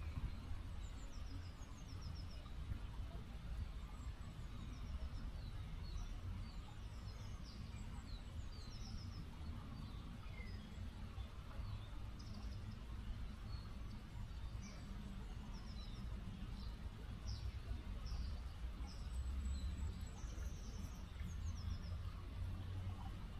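Steady rushing of a small river's flowing water, with many short, high chirps of small birds scattered throughout.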